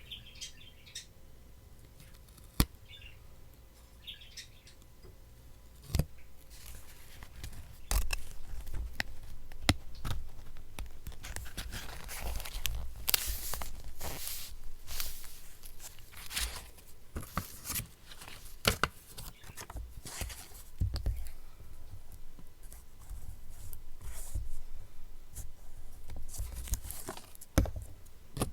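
Paper being handled for a collage: crisp rustling and tearing of paper, with sharp taps and clicks, getting busy and continuous about a third of the way in. Faint bird chirps sound in the first few seconds.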